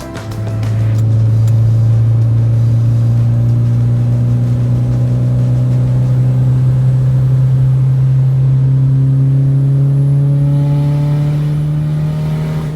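Car engine running under steady light throttle, its pitch climbing slowly and evenly as the revs build.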